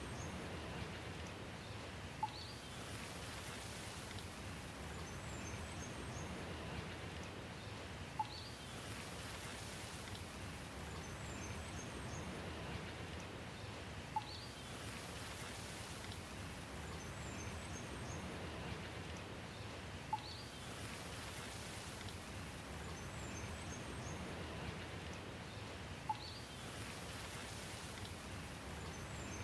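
Steady rain hiss with faint bird chirps. About every six seconds the same sharp click and high chirps come round again, identical each time, as in a looped recording.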